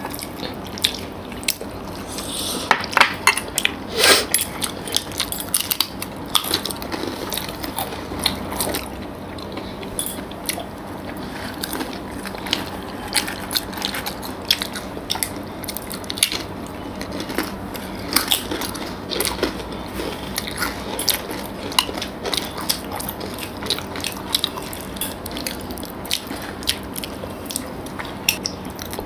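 Chewing and wet mouth sounds of people eating syrup-soaked rasgullas and pantuas, heard as irregular sharp clicks and smacks, most frequent a couple of seconds in.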